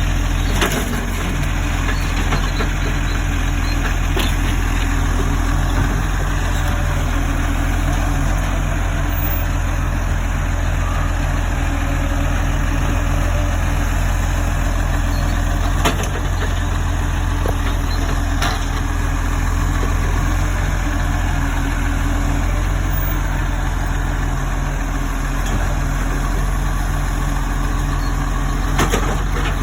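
Garbage truck engine running steadily at a low, even pitch, with a few brief clicks along the way.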